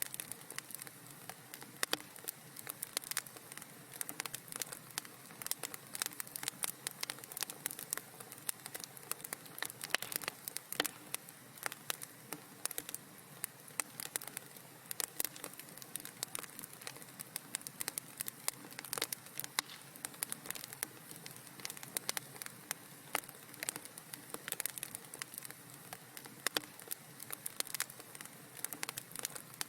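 Wood fire crackling in a fireplace: dense, irregular sharp pops and snaps over a steady hiss.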